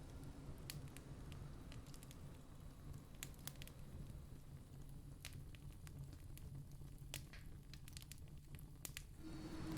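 Campfire crackling faintly, with scattered sharp pops over a low rumble. Near the end a louder rushing noise with a steady low hum comes in.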